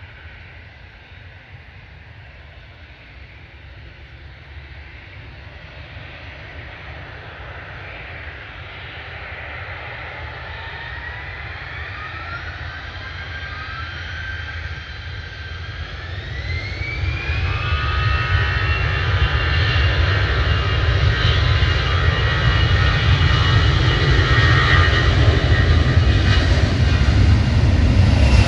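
Jet airliner's engines spooling up: a whine rises in pitch in steps about halfway through, then holds steady, while the jet noise grows steadily louder.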